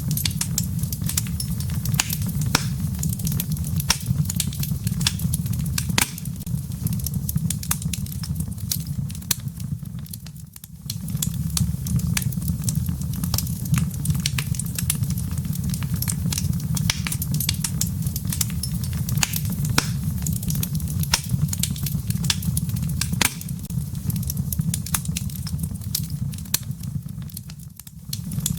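Wood fire in a fireplace: a steady low rumble of burning with frequent sharp crackles and pops from the embers. The sound dips briefly about ten seconds in and again near the end.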